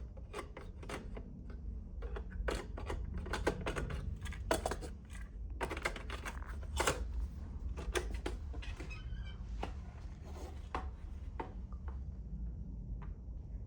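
Irregular clicks and knocks of small hard objects being handled, thinning out near the end, over a steady low hum.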